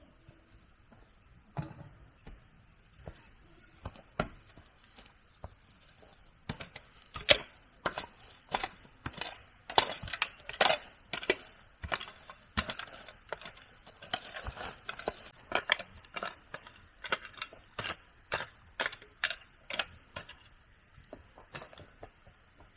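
Irregular series of sharp knocks from hand tool work on wood. A few isolated strikes at first, then quicker, uneven strikes at about two or three a second.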